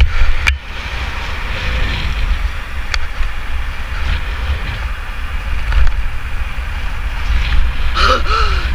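Wind rumbling across the microphone along with road and tyre noise from a moving bike, with a few light clicks. Near the end a voice begins shouting.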